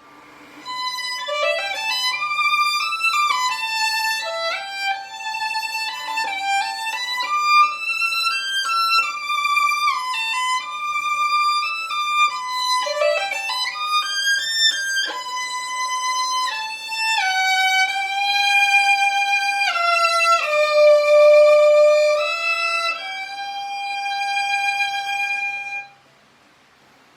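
A bowed string instrument plays a slow, lyrical melody, one note at a time, with vibrato and slides between notes. It stops about a second before the end.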